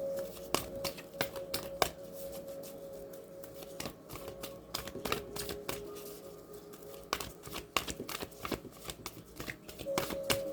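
Tarot cards being shuffled and handled: a scatter of quick, sharp card flicks and clicks, over faint background music with steady held notes.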